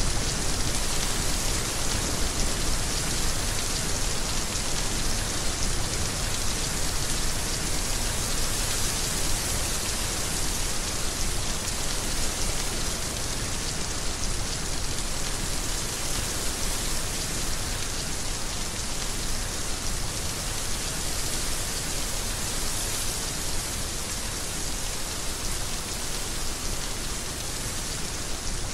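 Heavy rain falling steadily, an even, unbroken wash of drops.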